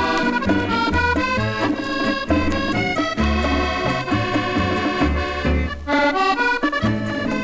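Musette dance band music led by accordion, played from a 78 rpm record, with a steady bass beat about twice a second.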